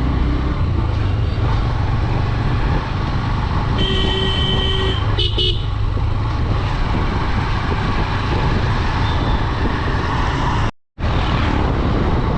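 Honda Dream 110 motorcycle riding along, with a steady engine and wind rumble. A vehicle horn sounds for about a second around four seconds in, followed by a shorter toot. The sound cuts out for a moment near the end.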